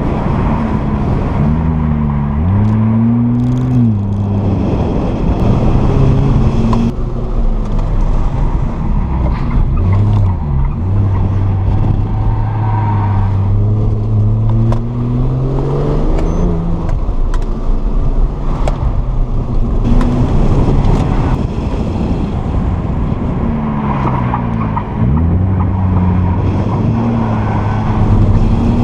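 2007 Porsche 911 Turbo's twin-turbocharged flat-six engine on an autocross run, revving up under acceleration and falling off again and again between cones, with abrupt drops in pitch at lifts and gear changes.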